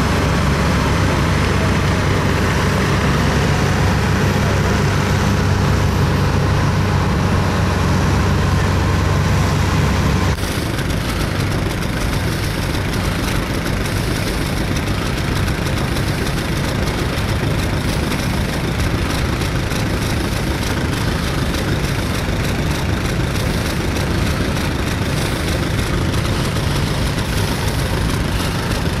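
Vintage tractor engine running steadily at a low, even speed. About ten seconds in, the sound changes abruptly to a rougher, noisier engine sound.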